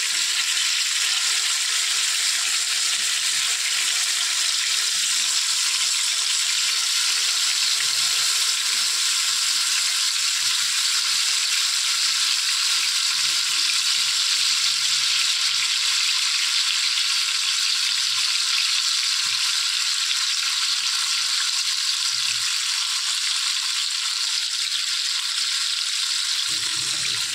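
Chicken drumsticks coated in green chilli paste sizzling steadily in a few spoonfuls of hot oil in a frying pan.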